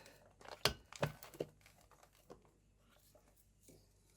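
Scattered sharp clicks and light knocks of scooter rear clutch parts being handled, with three louder ones about a third of a second apart in the first second and a half, then a few fainter ticks.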